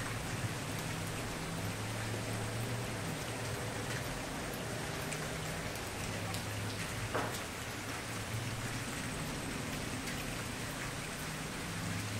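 Campfire crackling steadily, with scattered small pops and one louder pop about seven seconds in.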